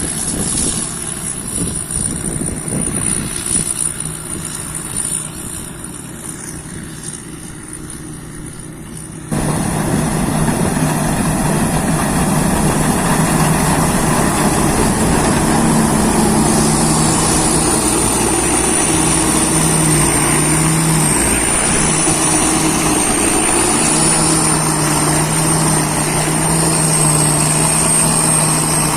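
Combine harvester's engine and machinery running steadily, with a thin high whine that wavers in pitch. About nine seconds in the sound jumps suddenly louder and stays loud, as at a cut to a closer recording.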